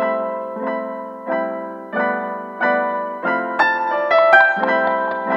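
Piano background music: a repeated chord struck about every two-thirds of a second, with a quick run of higher notes in the middle.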